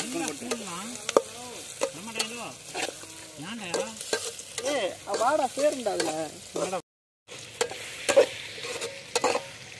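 Onions frying in oil in an aluminium pot while a spatula stirs them, scraping the pot with a wavering squeal and sharp clicks over a steady sizzle. The sound breaks off briefly about seven seconds in.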